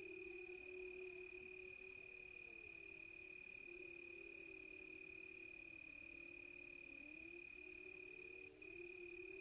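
Crickets trilling steadily on one high note, with a distant wolf chorus: several long, overlapping howls that waver slowly up and down in pitch.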